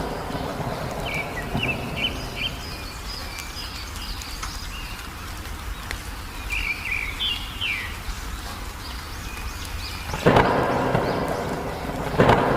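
Songbird chirping in short, repeated phrases over a steady low rumble of rain and thunder. Near the end come two sudden thunderclaps about two seconds apart, each fading slowly.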